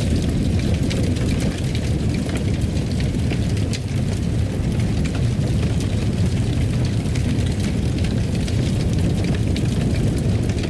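Fireplace fire burning: a steady low rumble with frequent small crackles and pops scattered throughout.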